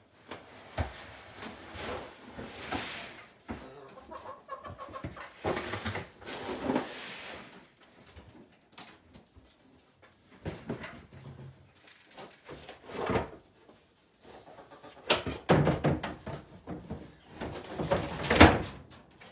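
Chickens clucking and moving about amid rustling and handling noises, with a sharp knock near the end.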